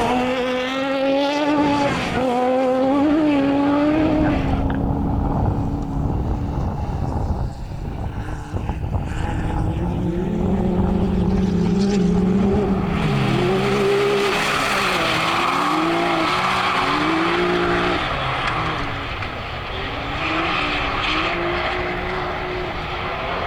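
Off-road racing vehicle engine revving hard, its pitch climbing and dropping again and again as it accelerates, shifts and backs off, for the whole stretch.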